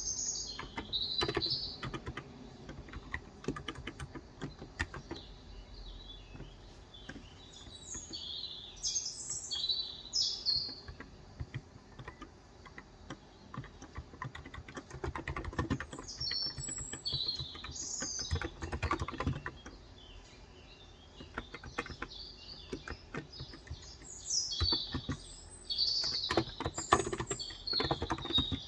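Typing on a Cox Endeavor tenkeyless keyboard with 35 g electrostatic capacitive (Topre-style) switches: keystrokes in quick irregular runs with short pauses. Small birds chirp in bursts of quick high notes several times.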